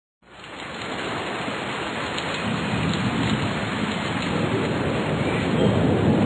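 Rainstorm: steady rain fading in at the start, with a low rolling rumble of thunder building through the second half.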